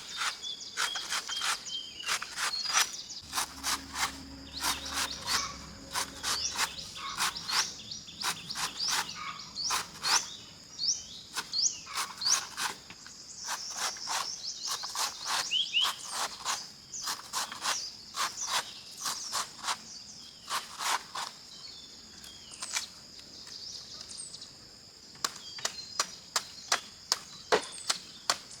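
Steady high-pitched drone of insects, with frequent sharp, irregular clicks and knocks over it and a few short bird chirps.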